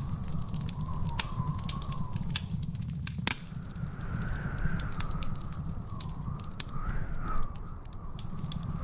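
Wood fire in a fireplace crackling, with irregular sharp pops over a steady low rumble. A faint wavering whistle runs underneath.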